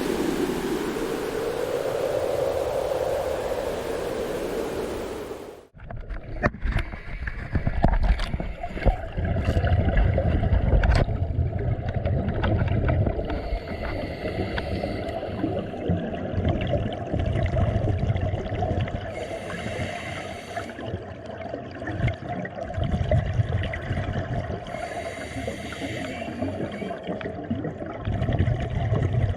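A steady rush of water noise, then a sudden cut to watery gurgling with scattered clicks, a steady hum and bursts of hiss every few seconds.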